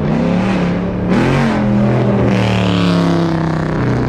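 Car engine revving in two short blips, then running at a steady, slowly falling pitch.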